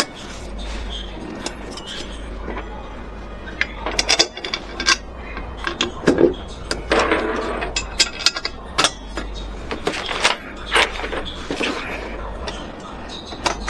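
Irregular clicks, knocks and clinks, thickest in the middle, over a steady low hum.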